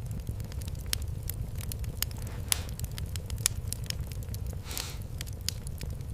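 Fireplace fire crackling, with many sharp pops at irregular intervals over a steady low rumble. There is a short hiss about two and a half seconds in and again near five seconds.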